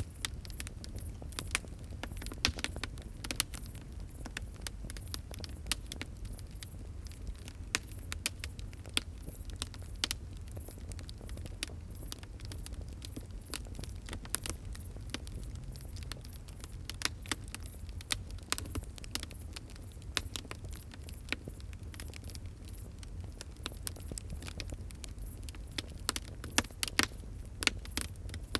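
Wood fire crackling: irregular sharp pops and snaps, a few louder than the rest, over a steady low rumble of the flames.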